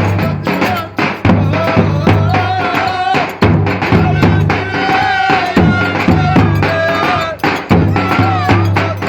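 Live Turkish folk dance music. A reedy wind instrument plays a bending melody over a steady low drum beat, with frequent sharp percussion clicks.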